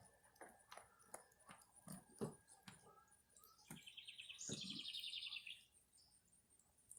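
Faint scattered taps and clicks of turkeys pecking, and about halfway through, a bird's rapid high trill lasting about two seconds.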